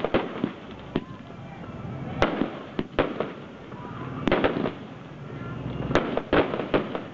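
Fireworks bursting in quick clusters of sharp bangs, two or three close together, with a gap of a second or so between clusters.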